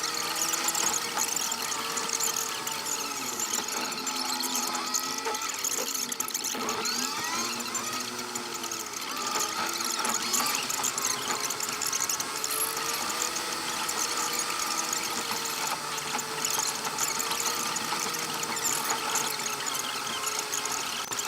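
A vehicle's engine making a continuous squealing whine, several tones at once whose pitch wavers up and down.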